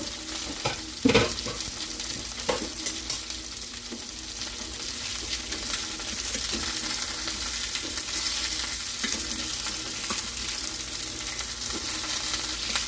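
Beef country-style riblets sizzling steadily as they sear in a hot pan. A few sharp knocks of a fork against the pan come in the first few seconds, the loudest about a second in.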